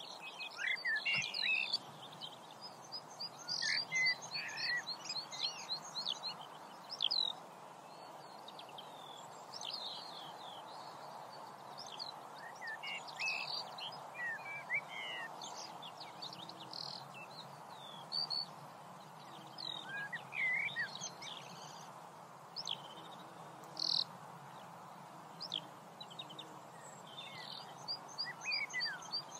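Songbirds singing: many varied chirps, whistles and quick trills, coming and going over a steady background noise.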